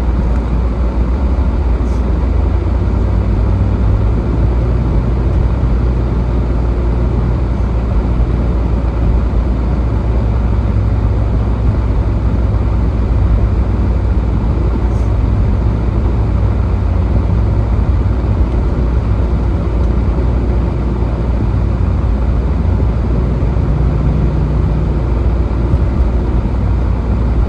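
Steady road and engine rumble inside a moving car's cabin, heaviest in the low end.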